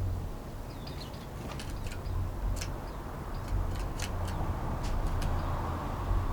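Short, sharp calls of small songbirds visiting a garden, scattered irregularly with a few tiny twittering notes about a second in, over a steady low rumble.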